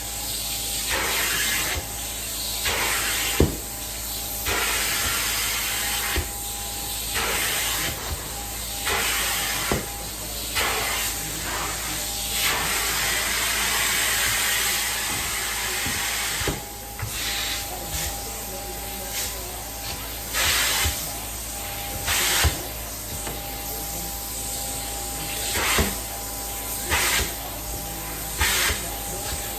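Carpet-cleaning extraction wand hissing as it sprays and vacuums in repeated strokes, with the cleaning machine humming steadily underneath.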